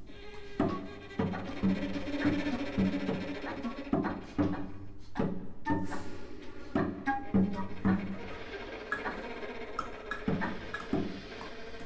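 Contemporary chamber ensemble of flute, clarinet, violin, cello, piano and percussion playing: irregular sharp percussive strikes, roughly one or two a second, over held low instrumental tones, with short high notes added in the second half.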